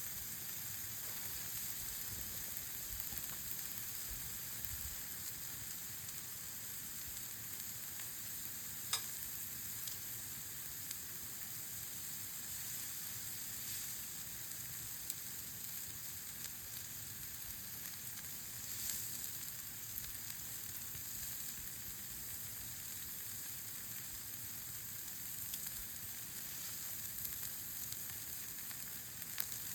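Meat sizzling steadily as it cooks over a wood campfire, with a sharp pop about nine seconds in.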